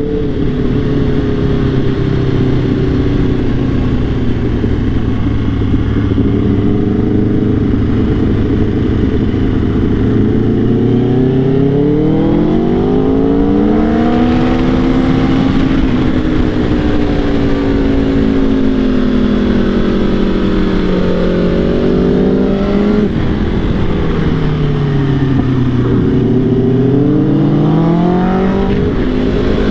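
Sport motorcycle engine at riding speed: it holds a steady pitch at first, then revs up and down in long sweeps through the second half, under a constant rush of wind noise.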